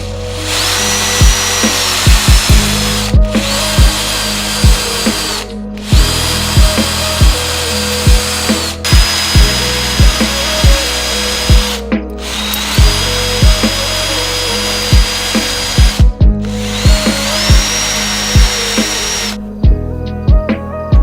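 Handheld power tool running in about six runs separated by brief pauses, several of them spinning up with a rising whine that settles into a steady pitch, then stopping near the end. Background music with a steady beat plays under it.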